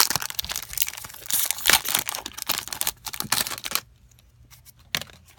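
A foil Pokémon booster pack being crinkled and torn open, with dense crackling for about the first three and a half seconds, then a pause broken by a single click.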